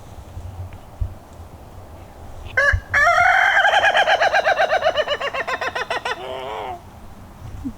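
Rooster crowing once, about two and a half seconds in: a short opening note, then a long wavering call of about four seconds that falls away at the end.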